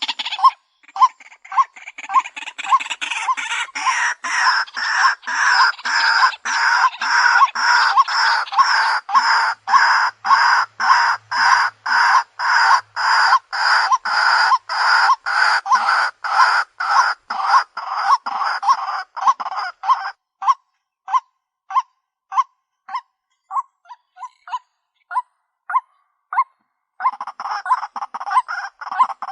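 White-breasted waterhen calling: a long run of repeated harsh "kru-ak" notes, about two a second. The notes are layered and overlapping until about two-thirds of the way in, thin to single spaced notes, and turn dense again near the end.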